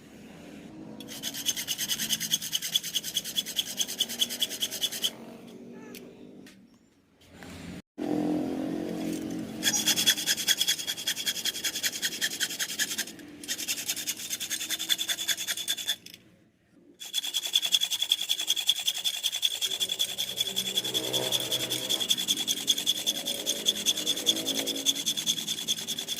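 Saw cutting through a rusty steel motorcycle exhaust pipe with quick, even back-and-forth strokes. It stops twice for short breaks.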